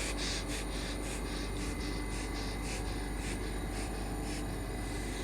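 Steady hum of a Class 730 electric multiple unit standing at the platform, with several constant tones, overlaid by a run of short hissing scrapes, about one or two a second.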